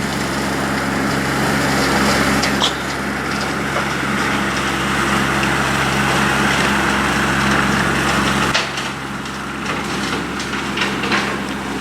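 A steady low engine drone under wind rushing on the microphone, with scattered clicks. The drone drops away about eight and a half seconds in.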